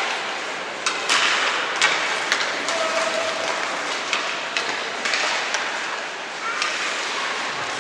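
Game sounds in a large, echoing hall: scattered sharp knocks and thuds over a steady crowd murmur, with a few faint shouts.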